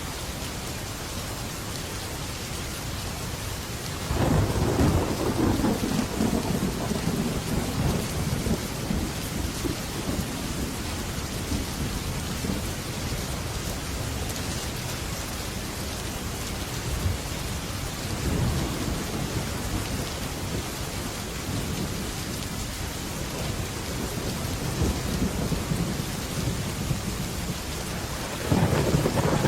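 Heavy rain falling steadily on a metal roof, with thunder: a loud clap about four seconds in that rumbles on for several seconds, softer rumbles later, and another clap just before the end.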